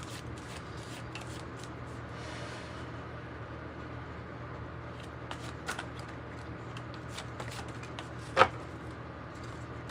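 Small tarot cards being shuffled and handled: quick light flicks and rustles, with one sharp click about eight seconds in, over a steady low hum.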